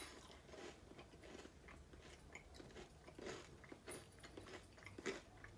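Faint, irregular chewing as several people eat bites of mango habanero Gouda cheese, with small scattered clicks and crunches.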